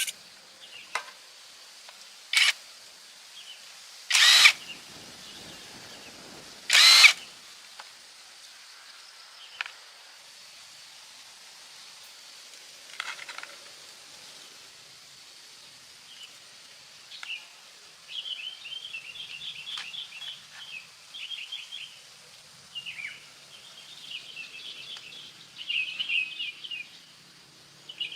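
A few short bursts of a power tool, the loudest three between about two and seven seconds in. In the second half, birds chirp repeatedly.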